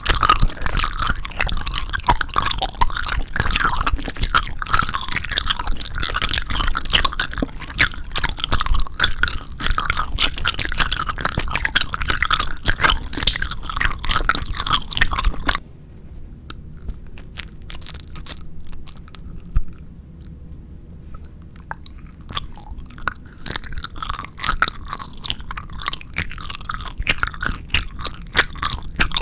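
Close-miked chewing and biting of 4D jelly candies, a dense run of wet, crunchy clicks. About halfway through it cuts abruptly to a much quieter, sparser stretch of chewing, which builds up again near the end.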